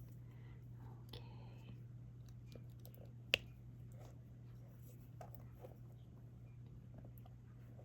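Soft, scattered small clicks and taps of a diamond-painting stylus picking up resin drills and pressing them onto the adhesive canvas, with one sharper click a little over three seconds in. A steady low hum runs underneath.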